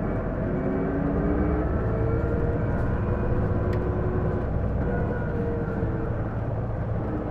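Isuzu Erga diesel city bus (PJ-LV234L1) running under acceleration, with a whine that rises in pitch in several steps over the engine rumble. The whine is the bus's abnormal noise, likened to an automatic transmission's sound, which the owner suspects comes from the transmission.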